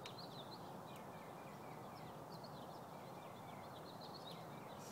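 Small birds chirping in quick, repeated short calls over a steady outdoor background noise.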